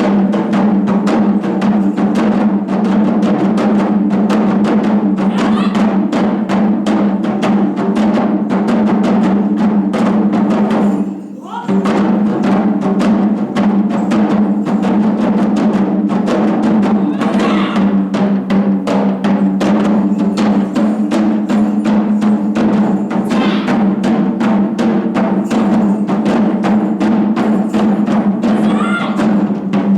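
Japanese taiko drums played by an ensemble, a fast, dense run of drum strikes. The drumming breaks off briefly about eleven seconds in, then starts again.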